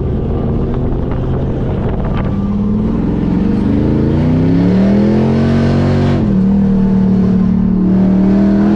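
Car engine accelerating: its note climbs for a few seconds, drops at a gear change about six seconds in, then holds steady.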